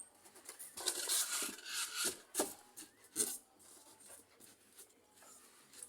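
Lid being put back on a compost box: a scraping rustle lasting about a second, then two short knocks a little under a second apart.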